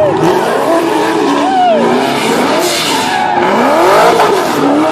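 Muscle car engine at high revs, its pitch rising and falling, while the tyres squeal and spin on the pavement in a loud, continuous screech.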